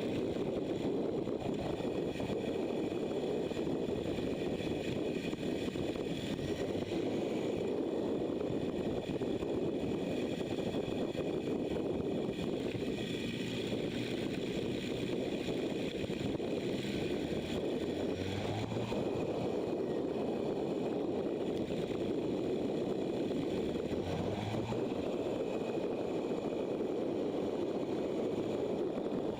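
Motorcycle on the move: steady wind rush over the microphone mixed with the engine running, the engine note rising briefly twice, near the middle and about three-quarters through.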